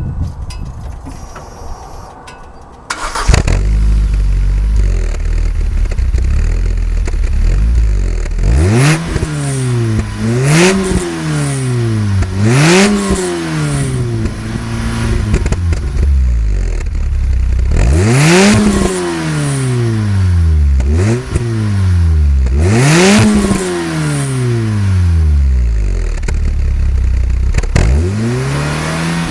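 Ford SportKa's tuned 1.6-litre four-cylinder engine (high-lift cam, 4-2-1 manifold, remap) heard through a Janspeed exhaust with a cat and two silencers. It fires up about three seconds in and idles. From about eight seconds on it is blipped about seven times, each rev rising and falling back to idle.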